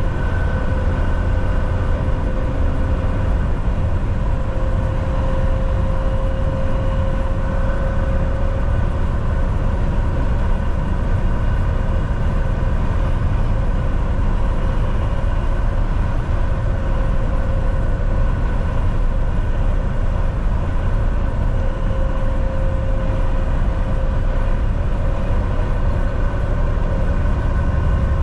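Volvo VNL 760 semi truck cruising at highway speed: a steady low engine drone and road noise, with a faint constant whine on top.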